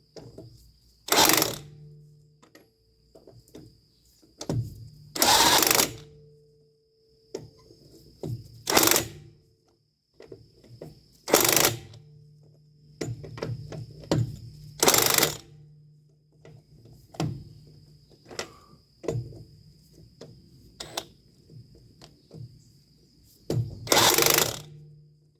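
Power tool run in short bursts of half a second to a second, about seven times, with small metal clicks of tool work on the trailer's brake assembly between them.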